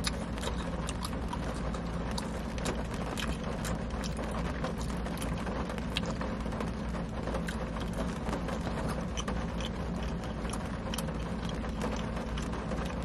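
Rain falling on a car's roof and windows, heard inside the cabin as many scattered light ticks over a steady low hum.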